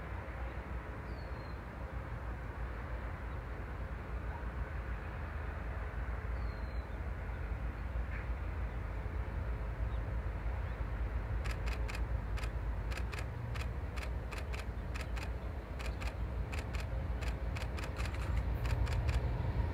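Approaching train's diesel locomotives, a low rumble that slowly grows louder. From about two-thirds of the way in comes a fast run of sharp clicks. Two faint bird chirps sound early on.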